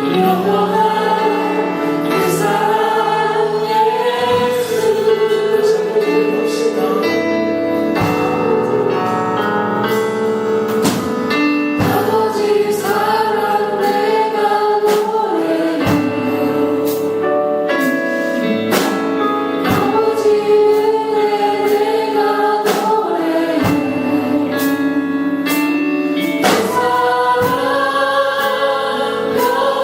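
A choir singing Christian worship music with instrumental accompaniment, sung notes held and sliding over regular percussive strikes.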